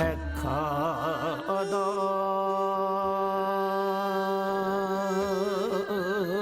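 A male voice singing sijo, the slow Korean classical sung poetry, holding one long drawn-out note. It wavers widely at first, settles into a steady tone about a second and a half in, and slides into a wide, slow vibrato again near the end.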